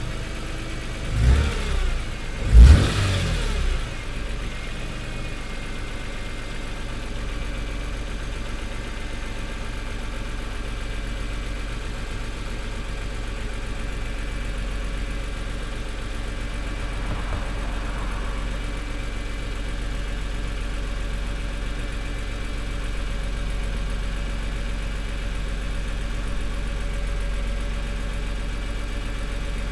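Car engine, still warming up after an overnight cold start, blipped twice in quick succession about a second and two and a half seconds in, each rev rising and falling back, then settling into a steady idle.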